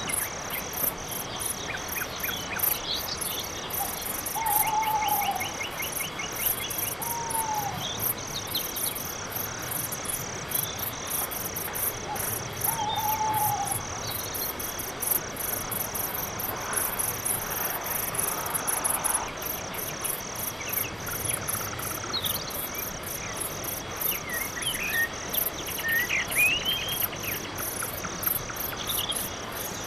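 Night-time insect chorus: crickets chirping steadily at about two chirps a second over a higher, continuous shimmer of other insects. A few short, arched calls from another animal come in the first half, and brief trills and rising whistles come in the last few seconds.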